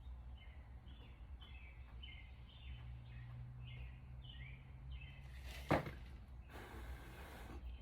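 A bird chirping over and over in short falling notes, over a low steady hum. About six seconds in comes a single sharp knock, then about a second of rustling noise.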